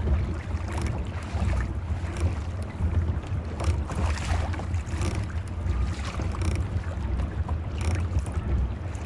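Wind buffeting the microphone with a fluctuating low rumble, over irregular splashing and sloshing of water against a kayak hull while under way.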